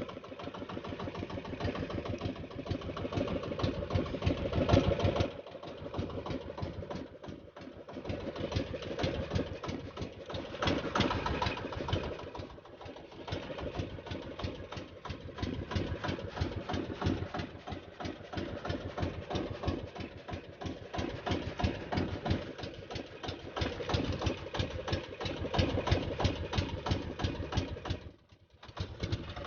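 A small engine running steadily with a fast, even chugging, its level dipping briefly a few times and dropping out shortly before the end.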